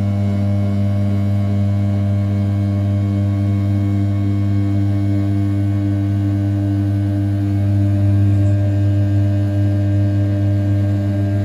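Desktop CNC router's 500 W brushless spindle at 6000 rpm, its end mill rough-cutting the outer profile of an A7075 aluminium block. A steady hum with a strong low tone and evenly spaced overtones, swelling slightly about eight seconds in.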